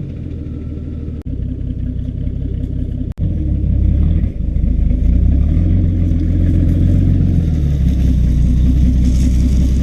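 Jeep engine running steadily at idle, a loud low exhaust rumble out of a homemade exhaust tip. It cuts out for an instant twice, about one and three seconds in.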